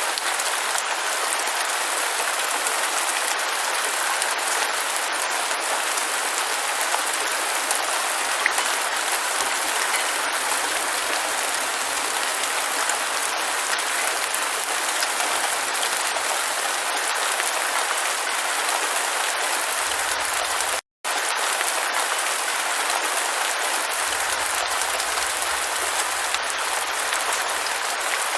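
Steady heavy rain, a dense even patter with fine crackle and little low end. It drops out completely for an instant about three-quarters of the way through, then resumes unchanged.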